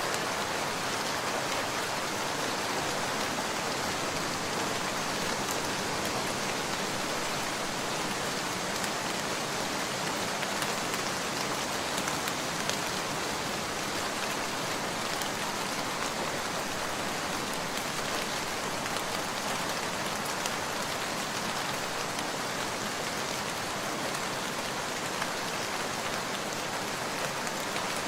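Steady rain falling, an even hiss with a few faint ticks here and there.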